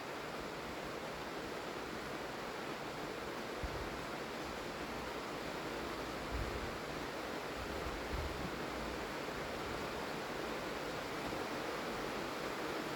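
Steady rain falling, an even hiss, with a few brief low bumps about a third and halfway through.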